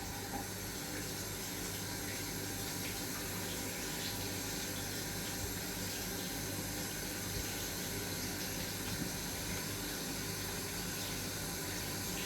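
Water running steadily from a tap, opened to test the hot water supply from a Gledhill Electramate boiler.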